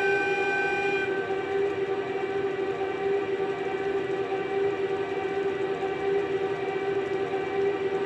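N gauge model train running on its track: a steady electric motor whine over faint rolling noise, with a couple of higher tones dropping away about a second in.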